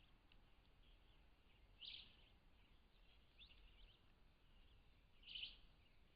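Faint bird chirps over a quiet forest background: short high calls about two seconds in, again around three and a half seconds, and the loudest one at about five and a half seconds.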